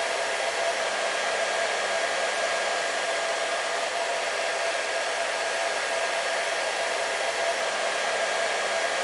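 Hair dryer running steadily: an even rush of air with a constant motor whine, no change in speed.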